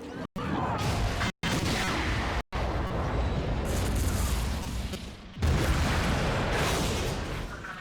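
Movie sound effects of a train wreck: loud rumbling booms of explosions and crashing wreckage. The sound cuts out three times in the first two and a half seconds, then swells suddenly about five and a half seconds in.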